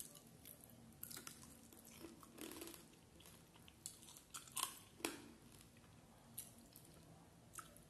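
Close-up sounds of a person eating rice and prawn curry by hand: chewing, with scattered soft clicks and smacks, the loudest two coming about four and a half and five seconds in.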